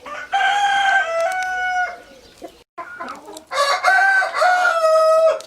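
Rooster crowing twice, two long cock-a-doodle-doo calls, each stepping down a little in pitch near its end.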